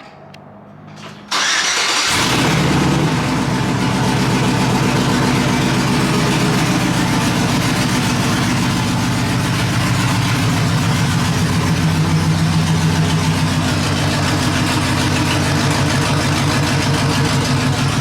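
Chevrolet Silverado pickup's engine cranking and catching about a second in, flaring briefly, then settling into a steady idle. The exhaust leak has just been repaired, so it idles without the leak noise.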